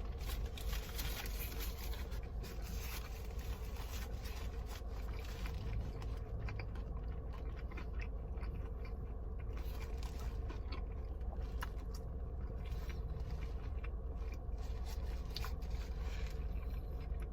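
Crunching bites and chewing of a crispy fried chicken sandwich topped with mac and cheese, with irregular crackles and clicks, most frequent in the first few seconds. A steady low hum runs underneath.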